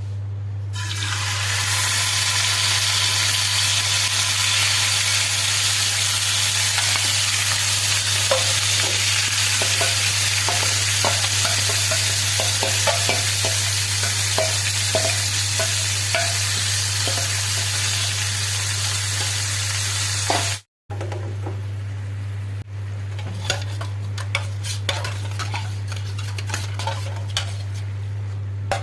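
Food sizzling loudly in hot oil in a pan, stirred with a spoon. After a brief cut about 21 seconds in, the sizzle is much quieter and the spoon clicks and scrapes against the pan. A steady low hum runs underneath.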